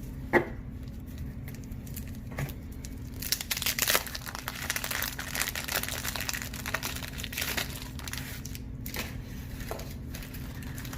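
Paper trading-card pack wrappers being torn open and crumpled by hand, an irregular crinkling and rustling that is busiest in the middle.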